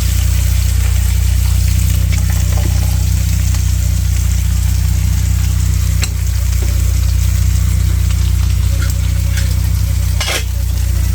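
Steaks frying in a pan, a steady sizzle with small crackles over a loud, steady low hum.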